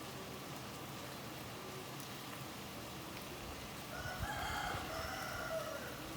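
Steady hiss of rain and wind in trees. About four seconds in, a single drawn-out bird call, about two seconds long, rises over it and drops slightly in pitch at the end.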